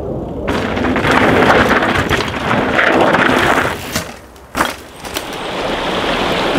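Mountain bike rolling fast over a rough trail: loud tyre noise on dirt and stones with many small clicks and rattles. The noise falls away about four seconds in, a single sharp knock sounds, and then it builds again.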